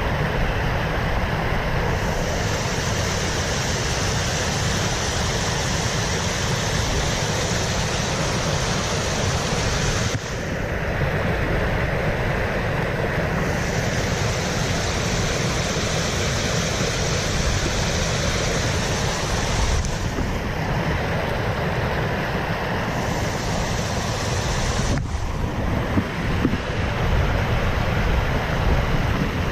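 Steady rush of flowing water mixed with wind buffeting the microphone, with no breaks. A higher hiss layered on top cuts out and returns several times.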